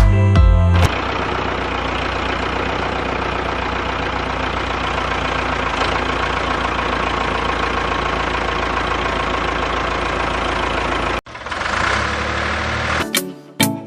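A small electric motor of a DIY model tractor running steadily with an even hum and whirr. It cuts off abruptly about eleven seconds in, and a shorter stretch of similar running follows. Background music plays briefly at the start and returns near the end.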